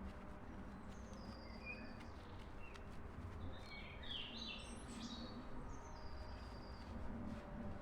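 Small birds chirping and singing in short calls, a cluster of quick notes about halfway through, over a steady low background rumble.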